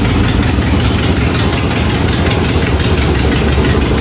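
1986 Chevrolet Caprice engine idling, with the rapid puffing of an exhaust leak, which the owner puts down to a bad donut gasket.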